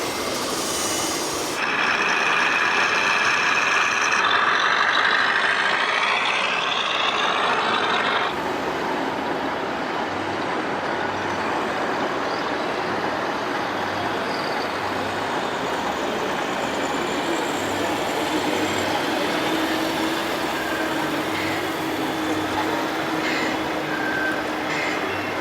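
Sound modules of RC scale model trucks playing truck engine sounds over busy hall noise. A louder stretch of several steady tones, some rising in pitch, lasts from about a second and a half in to about eight seconds in.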